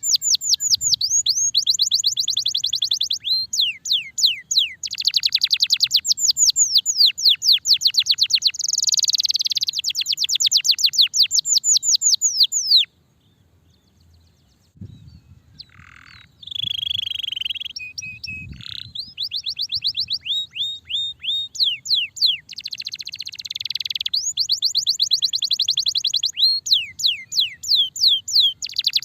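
Domestic canary singing a long song of fast trills, each trill a quick run of high notes that sweep downward. About halfway through the song breaks off for a second or two, then starts again with a few varied notes before the trills return.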